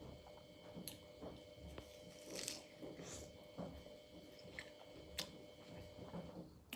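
Faint chewing and biting of watermelon, with scattered small crunches and mouth clicks.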